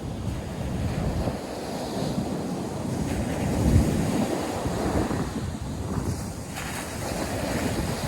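Ocean surf breaking and washing on a sandy beach, mixed with wind buffeting the microphone, with a brief stronger rumble of wind a little under four seconds in.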